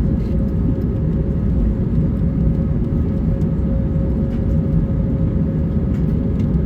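Airbus A321neo cabin noise on the ground before takeoff: a steady low rumble from the engines at idle and the aircraft rolling, with a constant hum and a few faint clicks.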